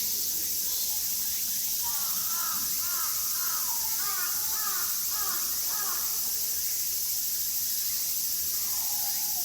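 Birds calling: a quick run of short, arching call notes, several a second, over a steady high hiss.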